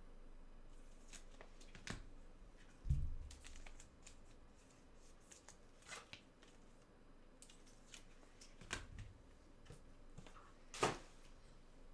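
Trading cards being handled, with scattered short clicks and rustles and a dull thump about three seconds in.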